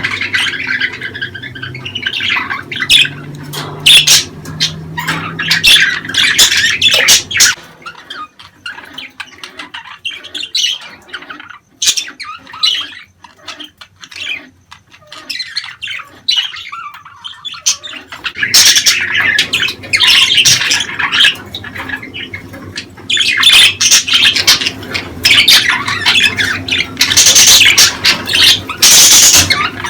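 A flock of budgerigars chattering, chirping and squawking, the calls thinning out in the middle and growing dense and loud again after about 18 seconds. This is the kind of flock chatter that keepers play to stimulate budgies to breed.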